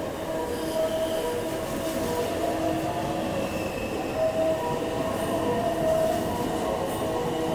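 Electric limited express train running along the station platform as it pulls in: continuous rolling rumble with several steady whining tones that fade in and out.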